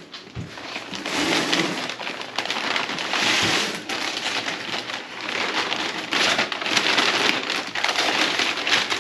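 Packing material rustling and crinkling as a part is unwrapped from its box: a dense crackle of many small clicks that swells and eases in waves.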